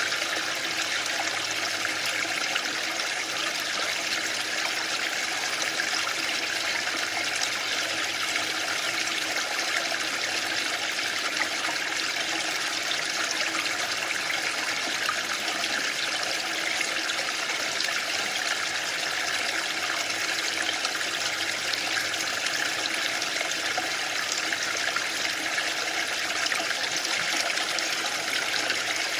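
Waterfall: a steady, even rush of falling water with no surges or breaks.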